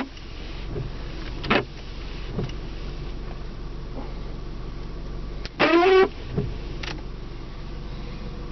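Windshield wipers on a 1997 Honda Accord being switched on and sweeping, with rubber blades squeaking on the glass: a short squeak about a second and a half in and a louder, longer squeal with a wavering pitch just over halfway through, over a steady low hum.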